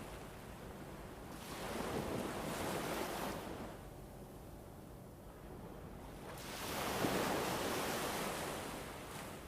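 Background ambience of rushing noise that swells and fades twice, once about two seconds in and again about seven seconds in, with no crackle standing out.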